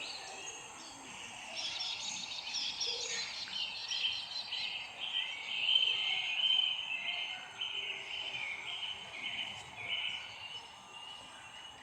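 Several songbirds chirping and singing at once, short quick notes overlapping throughout, over a faint steady background hiss.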